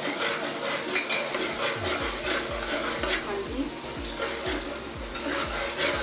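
Onion, ginger-garlic and tomato masala frying in oil, sizzling while a steel spoon stirs and scrapes around an aluminium pot. A regular low thud, about three a second, sets in about a second and a half in.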